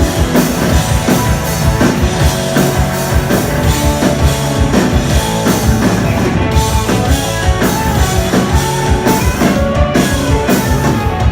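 Live rock band playing an instrumental stretch between vocal lines: drum kit keeping a steady beat under electric guitars.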